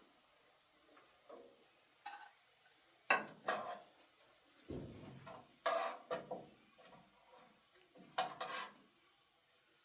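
Pots and dishes being handled: a scattered series of clanks and knocks with short ringing, in small clusters, and one deeper thump about halfway through.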